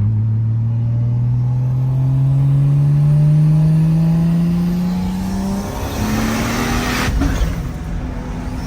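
Big-single-turbo 2JZ inline-six of an MK4 Toyota Supra pulling hard under acceleration. The engine note climbs steadily for about five seconds, drops at a gear change, and climbs again. A brief rush of noise comes about seven seconds in, before the next pull starts near the end.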